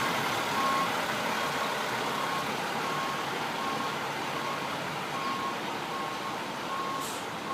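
Fire truck's reversing alarm beeping steadily, one short beep about every three-quarters of a second, over steady background noise.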